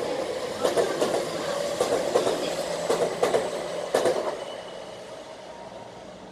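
Tokyu electric commuter train running past, its wheels clacking over rail joints in regular pairs of clicks over a steady rumble. The sound fades after about four seconds as the last car pulls away.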